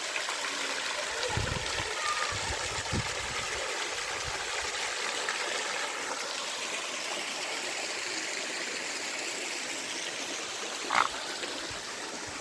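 A small waterfall splashing and pouring steadily down into a stream. A brief higher-pitched sound comes through near the end.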